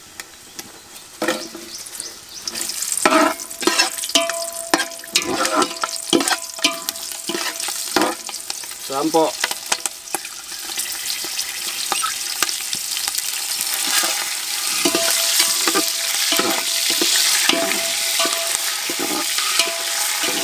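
Green chillies and whole spices sizzling in hot oil in a metal pot, stirred with a steel ladle that scrapes and knocks against the pot. The sizzle grows louder through the second half.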